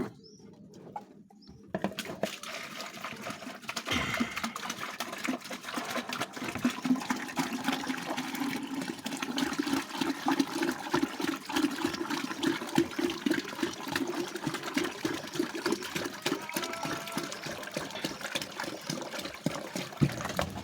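Water running and splashing steadily, starting about two seconds in and stopping shortly before the end.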